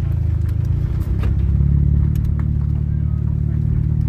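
Car engine idling steadily, a low, even rumble, with a few light clicks over it.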